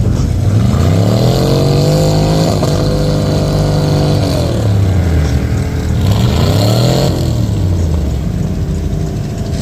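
Mud truck engine revved hard at full throttle, climbing and holding high for a few seconds, easing off, then revving up and falling away a second time.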